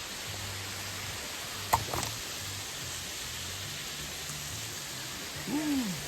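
Steady rushing of a waterfall, with a sharp knock just under two seconds in and a short vocal sound near the end.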